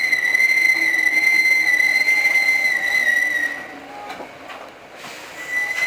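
Steady high-pitched squeal from a Hankyu 5000 series train's brakes as it slows into a station, fading out about three and a half seconds in; a similar tone starts up again near the end.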